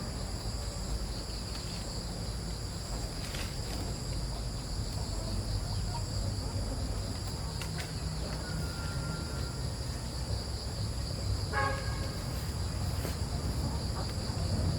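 Insects chirring steadily in several high-pitched bands over a low rumble. A short thin tone comes a little past the middle, and a brief call a few seconds later.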